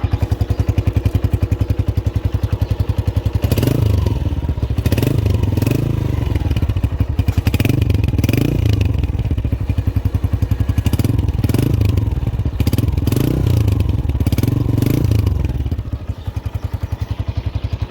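Honda CB125F single-cylinder motorcycle engine idling steadily, then revved repeatedly with quick throttle blips from about three and a half seconds in, settling back toward idle near the end before cutting off suddenly.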